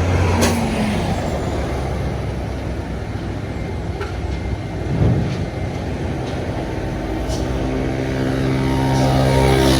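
Road traffic running steadily. In the last couple of seconds a heavy vehicle's engine grows louder as it passes close, its pitch bending as it goes by. There is one brief thump about halfway through.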